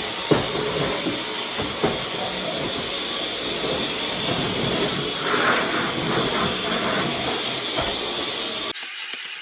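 Welding at work: a steady hissing and crackling with a few sharp clicks, cutting off abruptly near the end.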